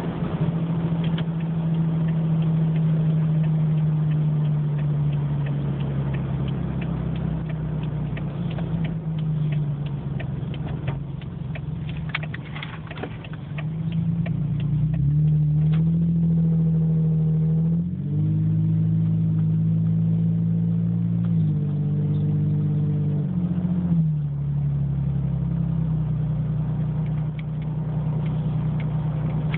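Exhaust note of a 2008 Toyota 4Runner's 4.0-litre V6 running through an aftermarket DirtyDeeds muffler, with the rear resonator removed and the pipe exiting at the side, while driving. The engine note sinks slowly at first, then climbs and steps up and down several times in the second half.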